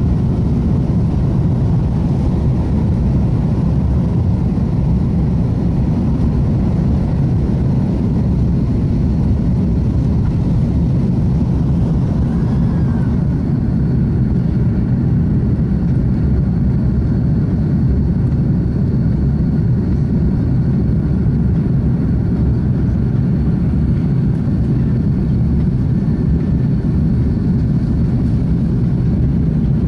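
Airbus A330 jet engines and airflow making a steady, loud low rumble that holds an even level throughout.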